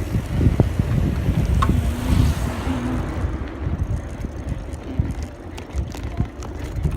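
Wind buffeting a phone microphone taped to the front of a moving bicycle, with the low rumble and small rattles of the ride.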